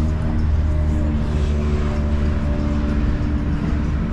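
Motorcycle engine idling steadily, with a deep, even low rumble.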